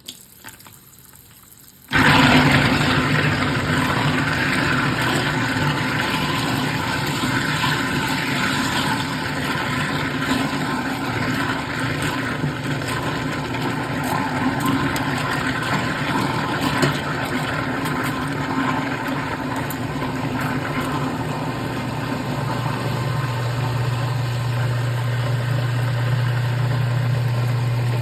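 Kitchen garbage disposal switched on about two seconds in, running steadily with a motor hum under the noise of water flowing into the sink. A few seconds before the end the hum grows stronger and steadier.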